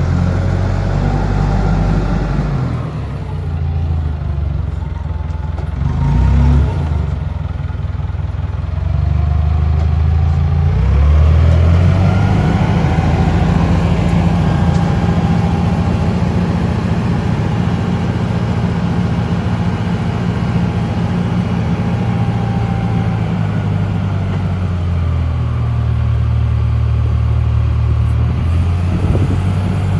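1998 Clark GCX-50 LPG forklift engine running, its speed rising and falling several times. A fainter whine glides up and down in pitch over it.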